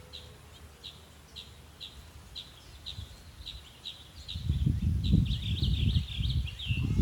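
A bird chirping over and over, short high chirps about two a second, coming thicker near the end. From about four seconds in, a louder, uneven low rumble joins it.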